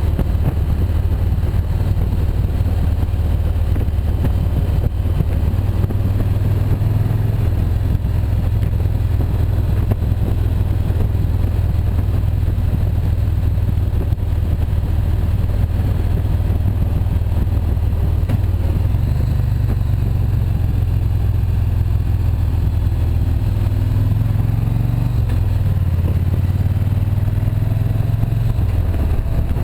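Motorcycle engine running steadily under way, heard from on the bike, with the revs shifting up and down a little several times in the second half.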